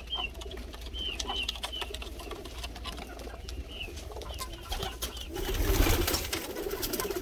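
Domestic pigeons in a loft: a run of short high chirps over the first few seconds, then a low wavering coo with a brief rush of noise near the end, with scattered light clicks throughout.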